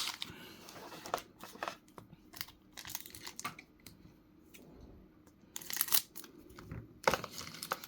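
Lorcana booster pack wrapper being torn open and crinkled by hand, in short scattered crackles, loudest about six and seven seconds in.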